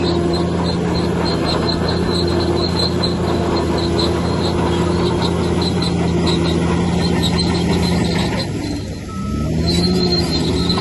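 Heavy diesel earthmoving machine, likely a bulldozer, running under load with a regular high squeaking of its tracks, about three to four squeaks a second. About nine seconds in the engine drops briefly, then revs back up with a rising pitch.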